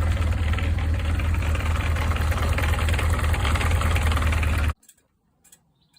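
Zephyr engine idling steadily with a mechanical rattle, which the owner says is normal for a Zephyr. The sound stops abruptly near the end.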